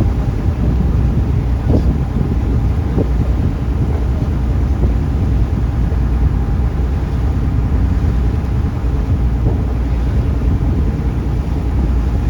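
Taxi boat's engine running steadily under way, a loud, even low drone.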